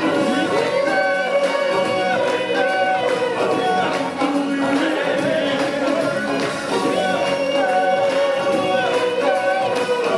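Music with singing: a long held, wavering sung note under short sung phrases that repeat about every second and a half.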